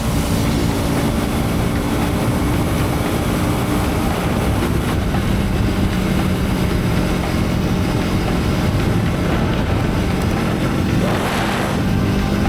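Motorcycle engine running under way with wind rushing over the microphone. The engine note drops about five seconds in and rises again near the end.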